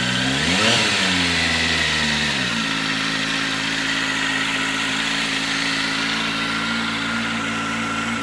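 Kawasaki Z1000's inline-four engine idling, with a short blip of the throttle soon after the start that rises and falls back to a steady idle.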